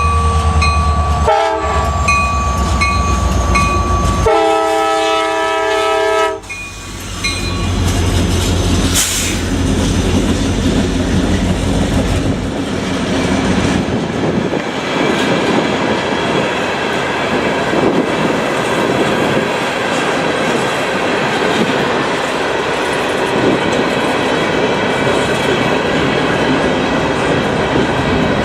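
Diesel train passing: a locomotive rumbles while a grade-crossing bell dings rapidly, then a multi-note horn sounds for about two seconds. After that the rail cars rumble and clatter by.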